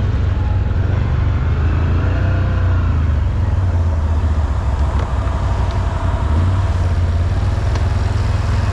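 ATV engine running steadily with a low, continuous engine note, its pitch briefly rising and falling about two seconds in.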